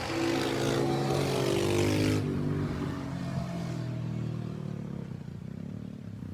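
Small off-road engines of dirt bikes and four-wheelers riding past, the engine pitch falling as they go by. About two seconds in the sound drops off, then fades away.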